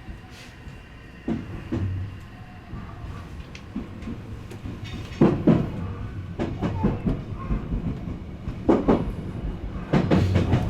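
Odakyu Line electric train running on the rails with a low rumble, its wheels clacking over rail joints in pairs several times. The running noise grows louder near the end.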